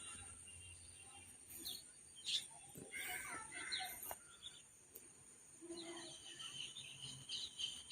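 Birds chirping outdoors in short, scattered calls, faint and on and off.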